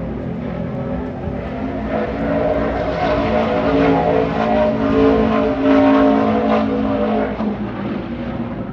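NASCAR Craftsman Truck Series race truck's V8 at full throttle on a qualifying lap, growing louder as it approaches, loudest past the middle, then fading away.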